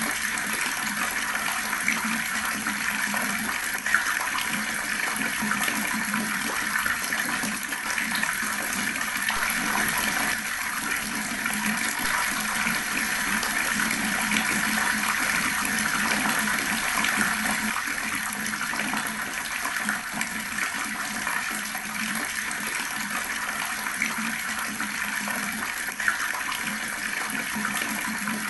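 Water running steadily from a tap, splashing in a continuous stream.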